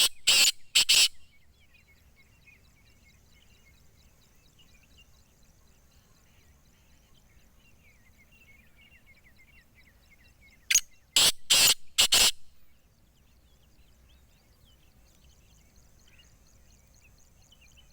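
Teetar (francolin) calling: a loud series of about four sharp, harsh notes at the start and again about eleven seconds in. Faint chirping of small birds in between.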